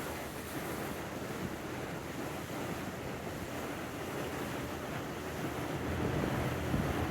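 Steady wind buffeting the microphone over the wash of water from a boat moving across open water, growing a little louder near the end.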